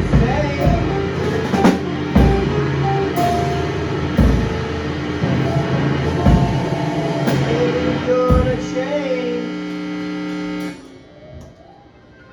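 Rock band playing an instrumental passage with drum kit and guitar, drums hitting regularly; the song ends about ten and a half seconds in, leaving a faint ringing tail.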